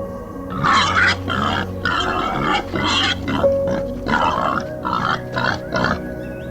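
An animal's short, harsh calls, about a dozen in quick succession, over steady background music.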